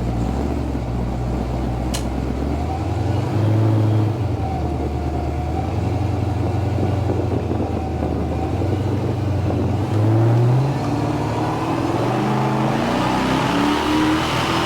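Supercharged 427 LSX V8 of a 1991 GMC Syclone pickup running on the move. It swells louder briefly about 4 and 10 seconds in, and its note climbs steadily near the end as the truck accelerates.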